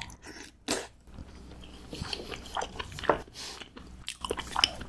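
A person chewing soft, moist omelet rice close to the microphone: irregular wet mouth clicks and smacks, with a few louder ones about a second in, around three seconds in and near the end.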